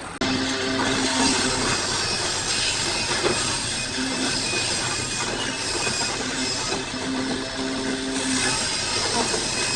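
Power woodworking tool cutting into wood, a steady hissing noise that starts abruptly, with a low hum that comes and goes every few seconds.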